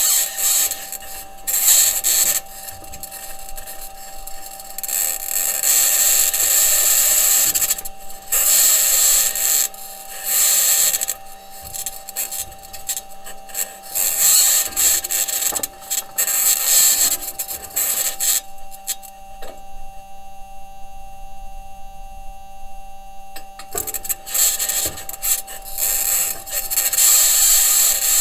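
Perseverance Mars rover driving: its metal wheels and suspension grind over the crater floor in loud, irregular bursts of high-pitched scraping, over a steady two-tone hum. For about five seconds past the middle, the scraping stops and only the hum is left.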